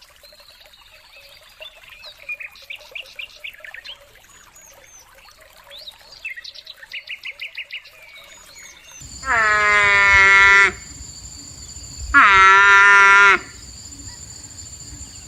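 Birds chirping in quick high trills and series for about nine seconds. Then a different animal gives two long, loud calls of steady pitch, each about a second and a half, over a low hum.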